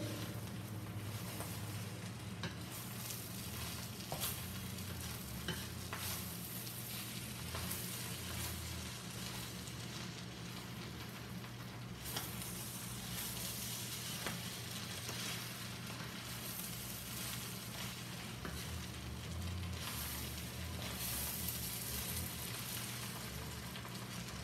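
Fried rice sizzling in a hot pan as it is stirred and turned with a wooden spatula, with scattered scrapes and taps of the spatula against the pan, over a steady low hum.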